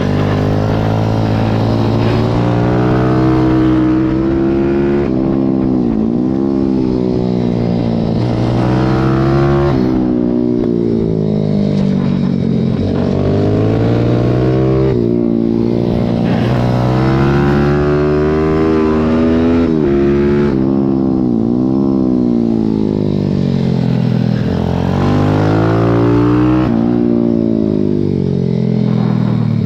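Pit bike's single-cylinder engine racing, heard from the bike itself: the revs climb in long pulls and fall away sharply again and again as it accelerates out of corners and brakes into them.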